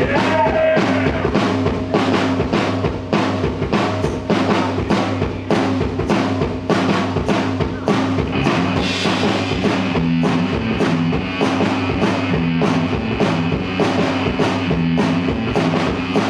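Live rock band playing a song's instrumental intro: a drum kit keeping a steady beat under bass and electric guitar.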